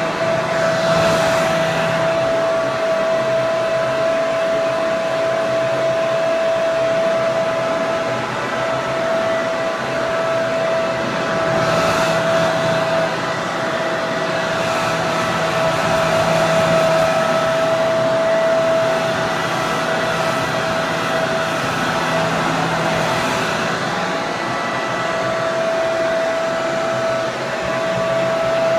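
Hair dryer running steadily: an even rush of blown air with a steady motor whine, swelling and easing slightly now and then.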